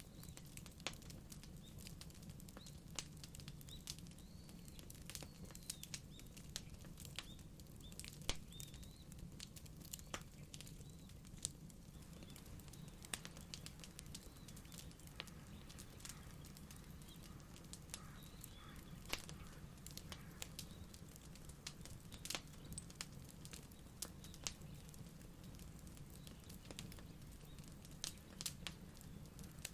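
Wood fire crackling: irregular sharp pops and snaps, several a second and some louder than others, over a low, steady rumble of the burning.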